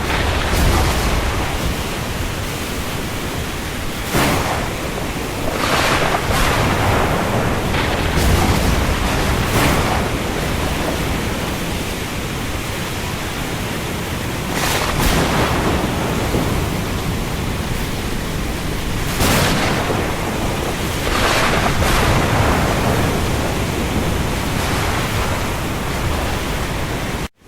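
Heavy rain falling on the open sea, a dense steady hiss with waves or gusts swelling up every few seconds. It cuts out for a moment right at the end.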